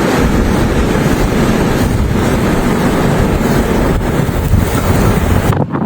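Strong blizzard wind blowing against the microphone: a loud, steady rushing roar with no clear tone, cutting off abruptly shortly before the end.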